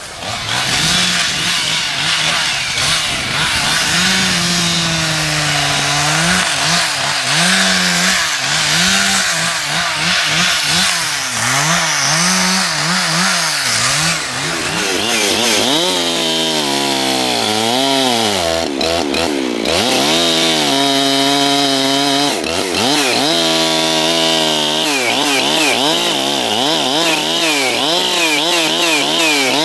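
Chainsaw cutting wood, its engine speed rising and falling over and over as the chain works through the cut, then dropping off right at the end.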